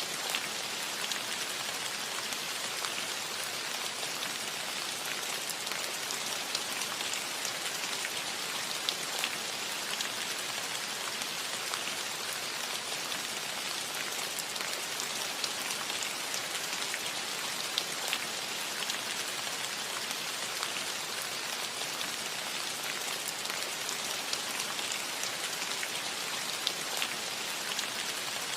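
Steady rain falling on a cottage roof: an even hiss with scattered individual drops ticking through it.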